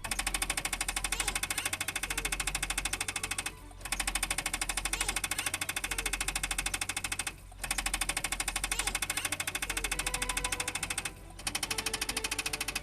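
A small machine running with a rapid, even mechanical clatter, in stretches of about three and a half seconds broken by brief pauses.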